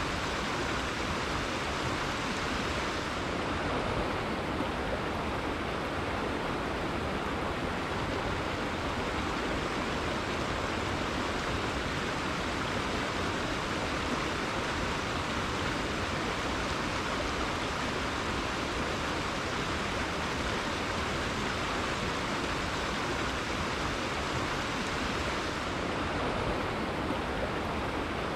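A river rushing in a steady, unbroken flow of water noise.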